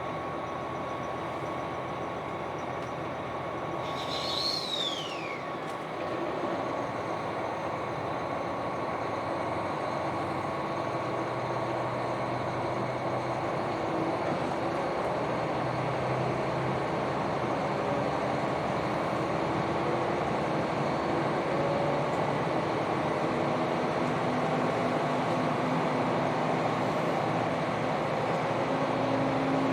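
KiHa 261 series 5000-number diesel railcar running, with steady rail and engine noise; from about ten seconds in the engine tones climb slowly and the sound grows louder as the train gathers speed. A brief high falling whistle-like tone sounds about four seconds in.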